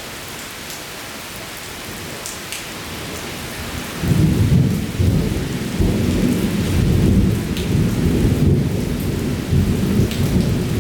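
Heavy thunderstorm rain falling steadily. About four seconds in, a loud, ragged low rumble comes in suddenly and keeps going.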